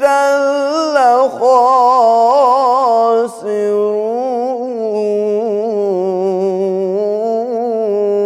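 A man's voice chanting Quran recitation in the melodic tajweed style, stretching one word into a long, ornamented line full of quick pitch turns. There are two short breaks, about a second and about three seconds in.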